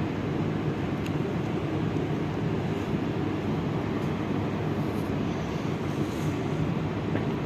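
Steady low rumble and hum of a metro train and its surroundings, with a faint click about a second in.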